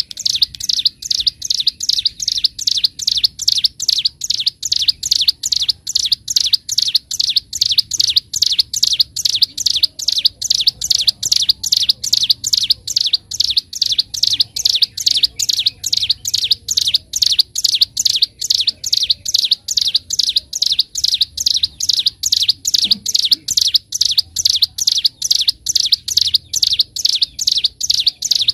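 Ciblek gunung songbird singing a fast, unbroken run of sharp, high repeated notes, about three a second: the rapid drilling song that keepers call ngebren.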